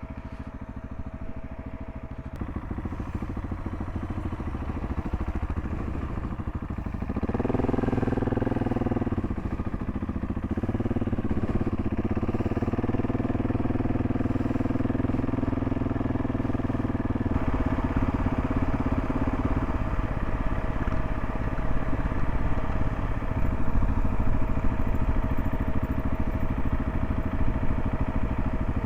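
Gas Gas ES 700's single-cylinder engine running as the motorcycle rides along, with riding noise. About seven seconds in the engine note shifts and grows louder, as on a throttle change, and it gets louder again past the middle.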